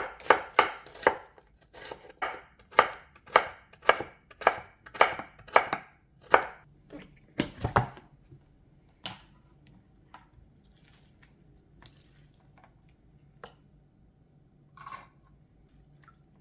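Knife chopping on a cutting board, about two even strokes a second, ending with one heavier knock about halfway through; after that only a few light scattered taps.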